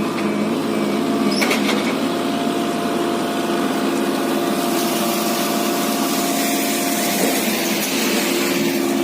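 Eicher tractor's diesel engine running steadily, its note wavering slightly for the first couple of seconds, with a brief knock about one and a half seconds in.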